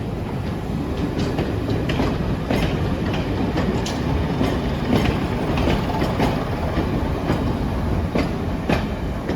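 BR Class 105 Craven diesel multiple unit moving along the track: a steady low rumble, with its wheels clicking irregularly over the rail joints.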